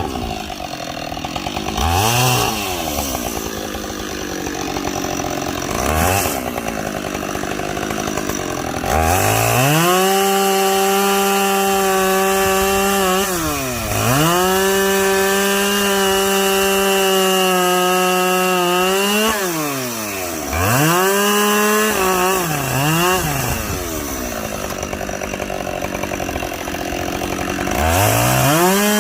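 Two-stroke chainsaw bucking logs: a couple of quick throttle blips, then long stretches held at full throttle while cutting, with the engine dropping back and blipping between cuts and revving up again near the end.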